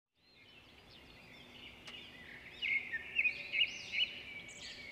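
Several birds singing and chirping, with many quick, high, arching notes overlapping. The sound fades in at the start and grows louder from about two and a half seconds in.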